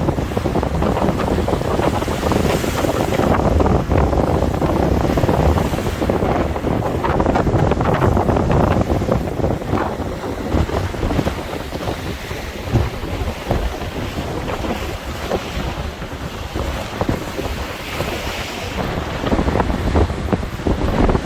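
Strong gusty wind buffeting the microphone over waves breaking on the shore. The wind eases somewhat about halfway through and picks up again near the end.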